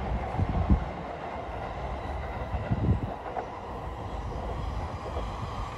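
Shinkansen and JR commuter trains running on elevated tracks: a steady rumble of wheels and motors, with a couple of low thumps about half a second and three seconds in.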